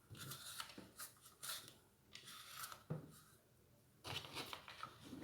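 Faint rustling and handling noises in several short bursts, with a sharp click about three seconds in.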